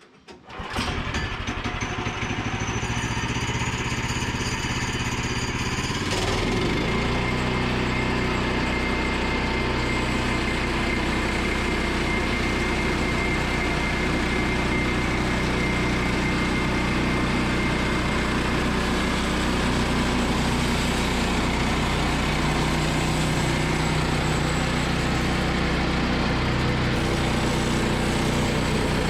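Small gasoline engine of a Woodland Mills portable bandsaw sawmill starting about half a second in and then running steadily. About six seconds in its sound changes to a deeper, even running note that holds.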